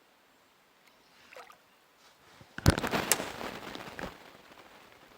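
A sudden splash in water about two and a half seconds in, lasting over a second and fading out.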